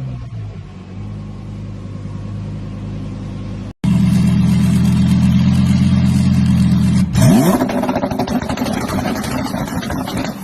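Lamborghini engine and exhaust running at a steady note. It breaks off and comes back much louder, held at high revs. About seven seconds in it revs sharply upward in pitch, then fades.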